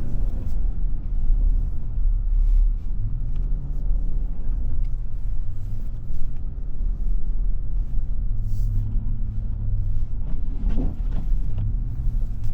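Pickup truck engine running and revving up and down, heard from inside the cab as the truck slides through fresh snow, under a steady low rumble.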